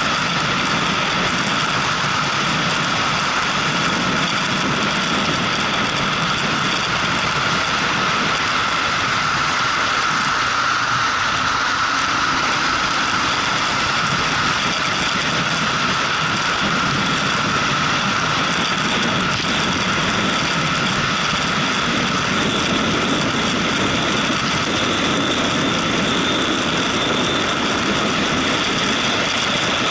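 A motorcycle being ridden, recorded from the bike: its engine runs steadily under a constant rush of wind and road noise.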